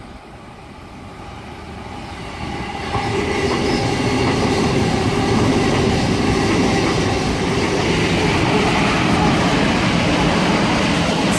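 Sydney electric suburban trains (an Oscar H set and a Waratah A set) running through the station at speed. The rumble of wheels on rail grows over the first three seconds, then stays loud and steady.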